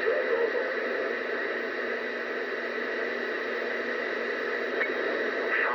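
CB radio receiver hissing with steady static on an open channel between transmissions, with faint broken fragments of distant voices buried in the noise.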